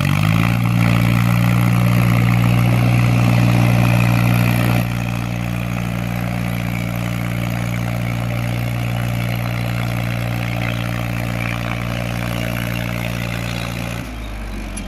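Mahindra tractor's diesel engine running steadily at an even pitch. It drops in loudness about five seconds in and again near the end.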